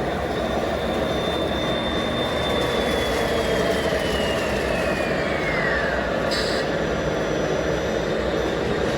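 Radio-controlled model trucks running, their electric motors and gearboxes giving a steady noise with a high whine that holds, then falls in pitch about halfway through. A short hiss comes just after the whine drops away.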